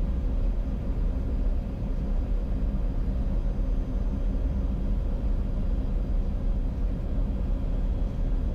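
Steady cockpit noise of a Bombardier Challenger 605 on final approach: a low, even rumble of airflow and engines with a faint steady hum.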